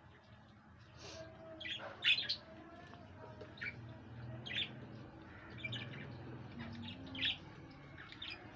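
Caged pet birds giving short, high chirps at irregular intervals, the loudest about two seconds in and another near the end.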